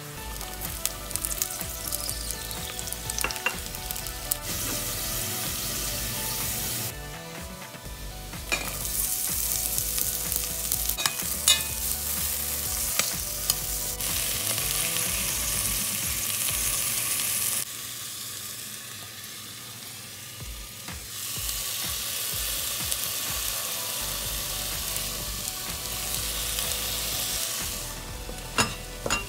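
Ginger, onion and chicken pieces sizzling in hot oil in a stainless steel pot, with a few sharp clicks and scrapes from stirring. The sizzle comes and goes in stretches and drops away for a few seconds past the middle.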